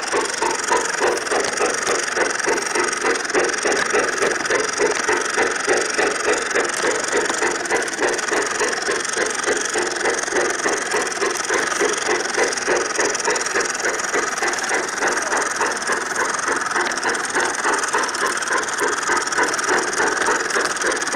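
Garden railway model train running steadily, with an even, rhythmic pulsing several times a second over a constant hiss and hum.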